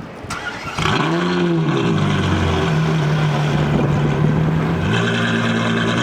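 Ferrari F12 Berlinetta's 6.3-litre V12 flares up in revs and falls back about a second in, then runs at a steady idle. Its note steps up a little about five seconds in.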